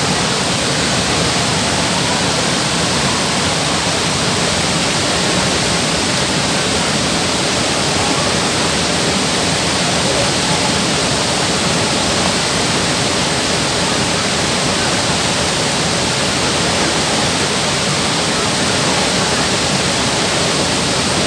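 Waterfall: water pouring and splashing in a steady, even rush of noise.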